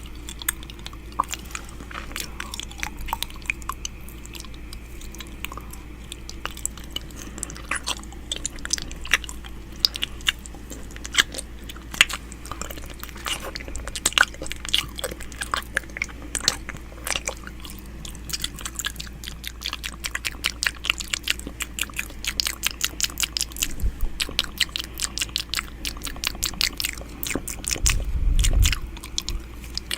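ASMR 'ear eating' mouth sounds made close to a microphone: quick, irregular wet clicks and smacks of lips and tongue, coming faster in the second half. A brief low rumble comes near the end.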